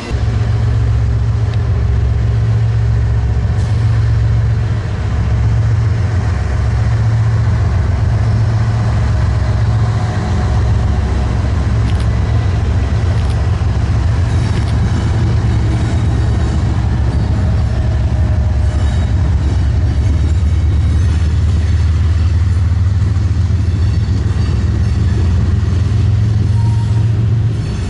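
Diesel locomotives of a train running, a loud, steady, deep engine rumble.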